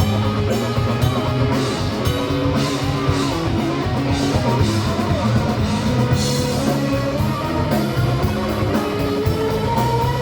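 Rock band playing: guitar over bass and a drum kit keeping a steady beat.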